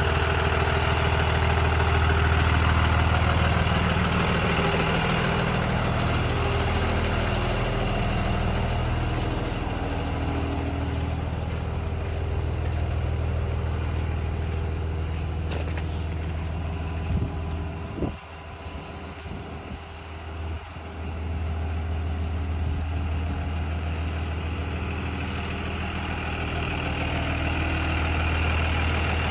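A 2022 Blue Bird Vision school bus engine idling with a steady low hum. The hum briefly falls away about two-thirds of the way through, then returns.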